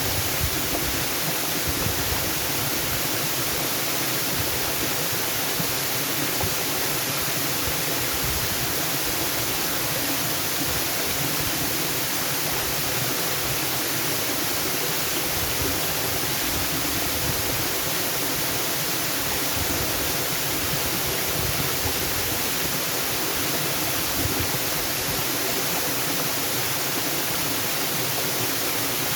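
Waterfall: the steady, unchanging sound of falling water, a dense even hiss with no separate splashes standing out.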